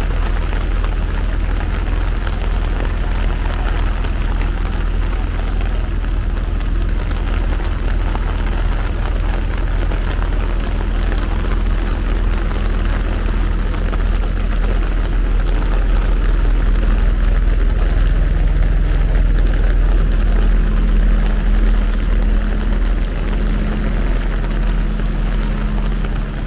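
Steady rain falling on wet pavement and standing water, over a constant low rumble. About two-thirds of the way through, a steady droning hum joins in.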